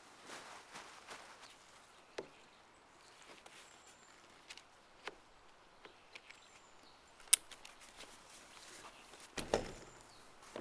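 Light handling noises: scattered clicks, taps and rustles, with one sharp click about seven seconds in and a louder rustle near the end.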